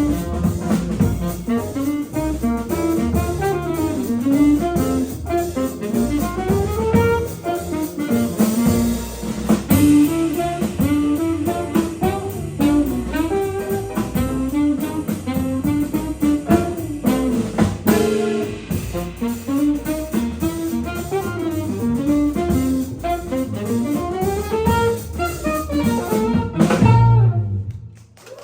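Jazz quintet of alto saxophone, guitar, piano, double bass and drum kit playing a fast line with busy drums. It ends on a final accented hit and cuts off about a second before the end.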